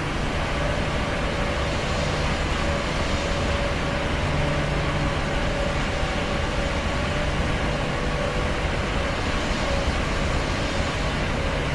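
Steady roar of an airplane's engines, even in loudness, with a low hum and a faint higher whine on top.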